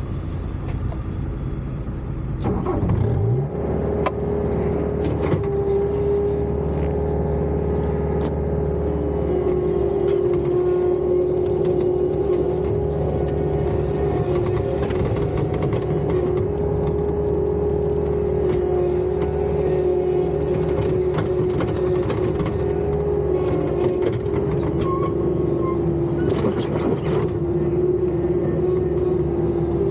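Bobcat skid-steer loader's diesel engine running under load, with a steady high whine over it; the engine revs up about two to three seconds in. Occasional sharp knocks as the machine works at breaking out and removing old concrete.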